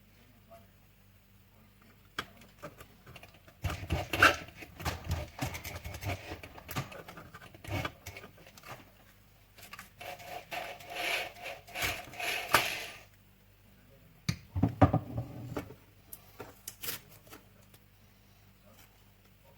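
Workbench handling noises: parts being picked up, set down and rubbed, with irregular clicks and scrapes in three bouts.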